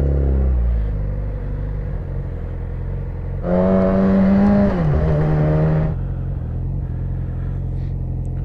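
Yamaha R6 inline-four sportbike engine with an Akrapovic exhaust, heard while riding. The engine note falls away in the first second, then it runs steadily. About three and a half seconds in, the throttle opens into a strong, steady high note that drops in pitch once and cuts off sharply about two seconds later.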